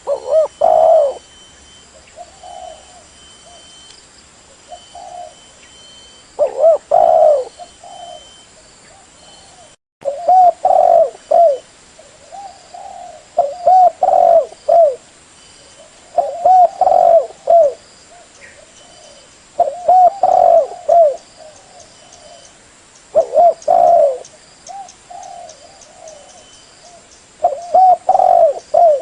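Spotted dove cooing: a series of low, rolling coo phrases, one about every three seconds with short quiet gaps between. There is a brief cut-out about ten seconds in.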